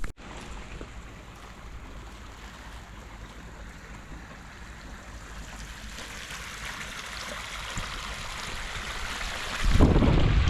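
Steady rushing wind that slowly grows louder. Near the end a gust hits the microphone with a loud, deep buffeting.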